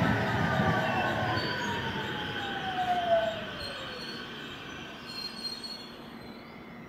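Local electric passenger train running past and fading away, a whining tone from it falling steadily in pitch over the first four seconds as the sound dies down.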